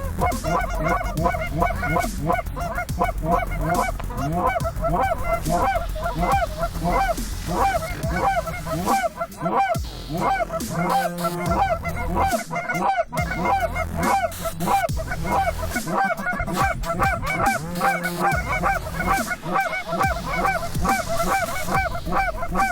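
A large flock of geese honking, many short arched calls overlapping in a continuous din, with a low rumble beneath.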